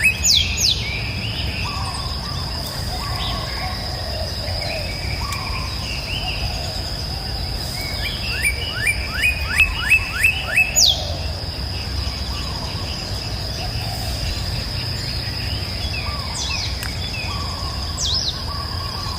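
Wild birds calling: twice, a quick run of about seven down-slurred whistled notes, with sharp high down-sweeping calls and scattered softer chirps between. A steady high-pitched tone runs underneath.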